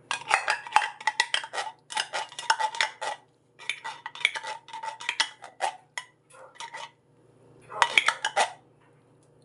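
A spoon scraping and clinking against a cooking pot in quick runs of strokes, broken by short pauses, as food is stirred or sauce is scraped in.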